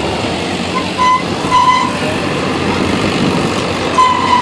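A truck engine running loud and steady under heavy load while pulling. Three short high tones sound over it: about a second in, shortly after, and near the end.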